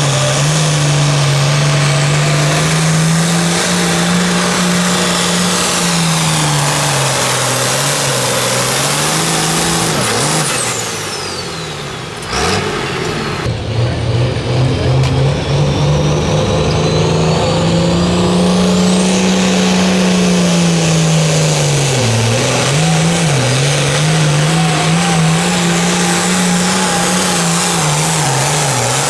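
A sled puller's engine running hard under load, its pitch rising and falling as it works. About twelve seconds in it drops off, gives a single sharp crack, and runs roughly and unevenly for a few seconds before settling back into steady full-throttle running.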